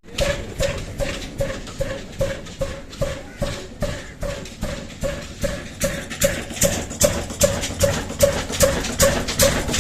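Old 18 HP single-cylinder 'desi' diesel engine running at slow speed on a tube-well water pump, its exhaust beating evenly at about three beats a second.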